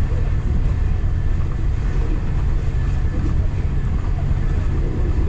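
Local passenger train running along the track, a steady low rumble with road noise.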